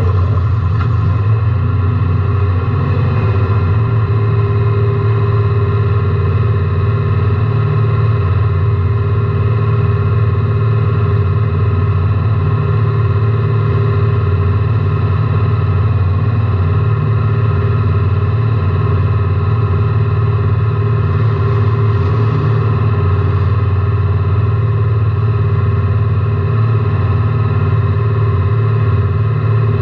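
Race car engine heard from inside the cabin, running at a steady, unchanging speed. It is loud and distorted on the in-car microphone.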